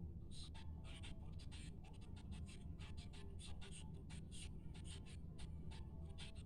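Irregular scratching and rustling, several short scrapes a second, over a steady low rumble.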